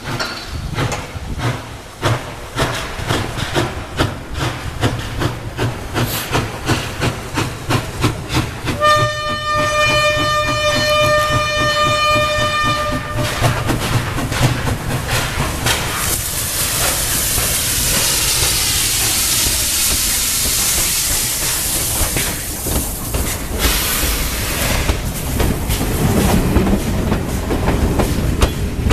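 SY-class 2-8-2 steam locomotive working with rhythmic exhaust beats. It sounds a steady whistle for about four seconds about a third of the way in. The exhaust then gives way to a continuous rumble and hiss as the train rolls past.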